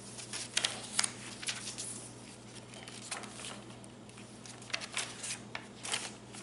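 Paper pages of a handmade junk journal being handled and turned: irregular rustling with short crisp crinkles, a cluster of sharper ones around a second in and more again near the end.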